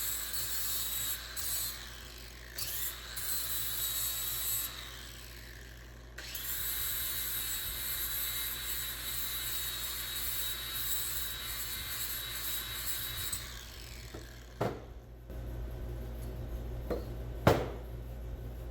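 Handheld power tool running against a workpiece: a few short bursts, then a run of about seven seconds, its whine rising as it spins up and falling away as it stops. A few sharp knocks follow near the end.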